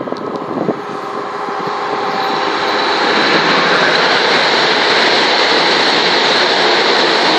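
An eight-car Class 377 Electrostar electric multiple unit passing through the station. The rush of wheels and running gear builds over the first couple of seconds, then holds steady and loud, with a high steady whine above it.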